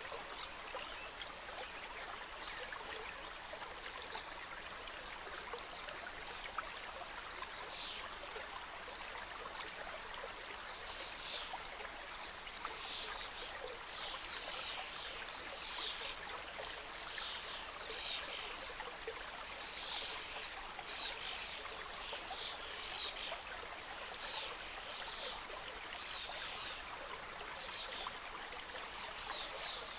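Small mountain stream cascading over rocks: a steady rushing and splashing of water. Brief high chirps come and go over it from about a quarter of the way in.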